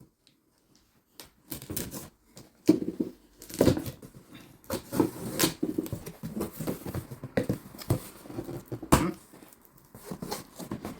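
A parcel being unpacked by hand: irregular tearing, crinkling and rustling of packaging with scattered knocks. It starts about a second in.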